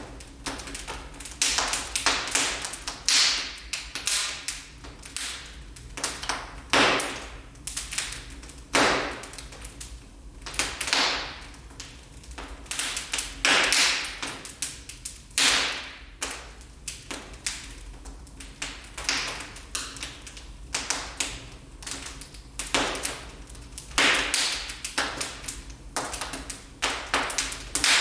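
Wood fire burning in a fireplace, crackling with a constant scatter of small snaps and, every second or two, a louder pop.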